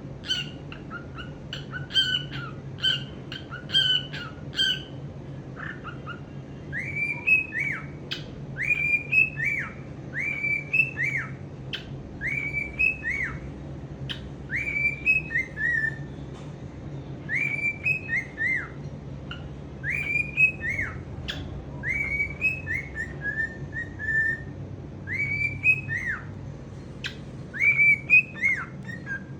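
Male cockatiel singing: a quick run of short chirps, then a whistled phrase of rising-and-falling notes repeated about every two seconds.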